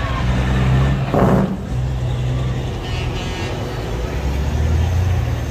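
Truck engines running steadily, with a short burst of noise about a second in.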